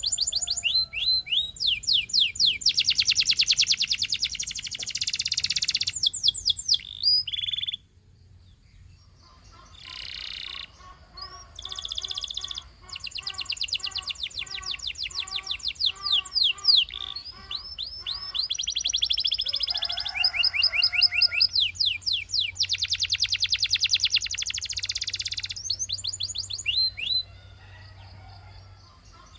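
Canary singing a long song of fast trills and rolls of rapidly repeated notes, some sweeping up and down, with a brief pause about eight seconds in.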